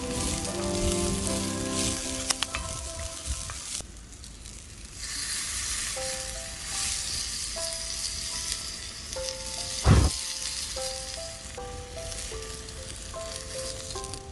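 Food frying, a steady hissing sizzle that fades out about four seconds in and comes back a second later, with a few small clicks near the start. A single heavy thump about ten seconds in. Background music plays throughout.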